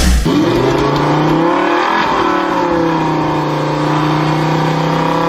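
Vehicle engine revving sound: one continuous drone whose pitch rises and falls about two seconds in, then holds steady.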